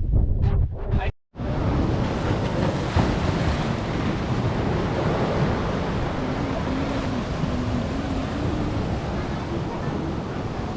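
Steady rush of ocean surf, with faint voices in the background.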